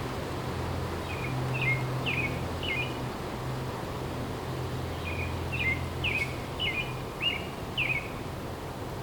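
A songbird giving short, falling chirps in two quick bouts, over a steady low drone of distant highway traffic and a faint hiss of wind in the trees.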